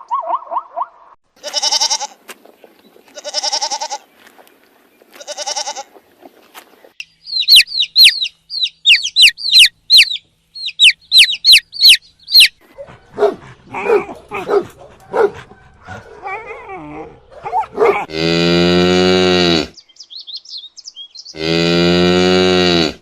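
A string of animal calls ending in two long, loud cow moos. Before them come three short pitched calls, a run of rapid high chirps and some scattered short calls.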